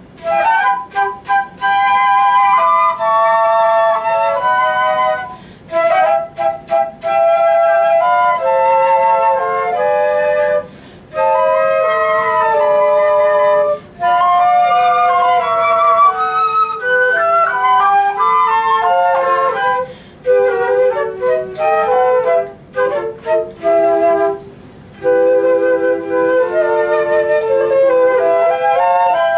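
Flute playing a melody in phrases, note by note, with short breaks between phrases.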